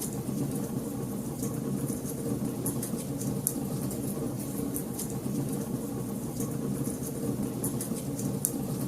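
Fire burning in a fireplace, crackling: frequent sharp, irregular pops over a steady low rumble of the flames.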